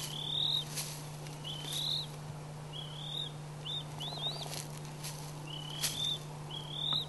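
A bird calling repeatedly: short rising chirps, about one a second, over a steady low hum.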